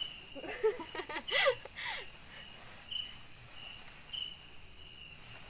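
Night-time insect chorus: a steady high-pitched drone of crickets or similar insects, with short chirps repeating about twice a second. A brief burst of a woman's voice comes about a second in.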